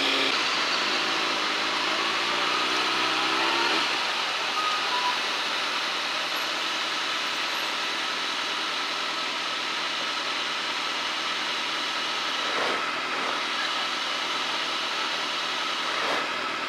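Kawasaki ZX-6R sport bike's inline-four engine climbing in pitch as it accelerates for about the first four seconds, then a steady rush of wind noise over the camera microphone at riding speed with the engine underneath.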